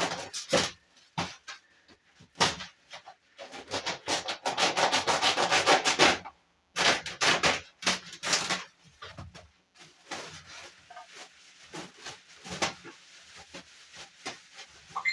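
Polystyrene packing rubbing and scraping as it is worked off the base of a new washing machine: a run of irregular scrapes and squeaks, with one longer continuous stretch in the middle.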